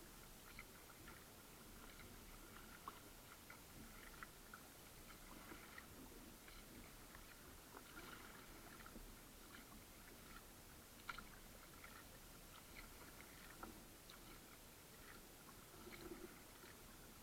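Faint water sounds around a kayak: small irregular splashes, drips and soft clicks.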